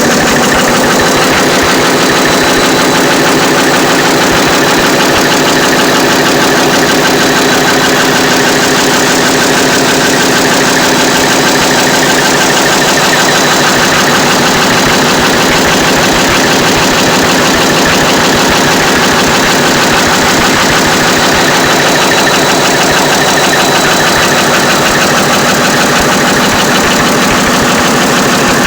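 Four-stroke diesel engine running steadily with a fast, even clatter, its rocker arms and valves working.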